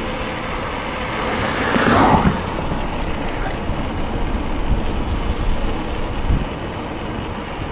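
Wind rumble on the microphone and road noise from riding a bicycle along a road, with a motor vehicle passing, loudest about two seconds in.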